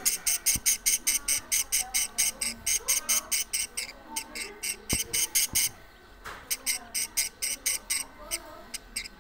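Budgerigar colony: rapid, rhythmic high-pitched chirps, about seven a second, over softer warbling chatter, with a brief break in the chirping about six seconds in.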